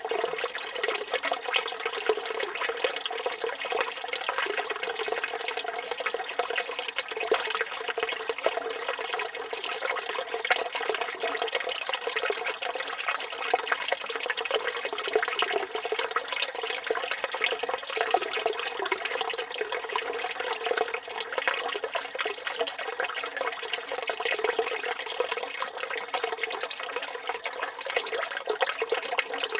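Water from a village fountain's spout pouring and splashing steadily into its stone basin.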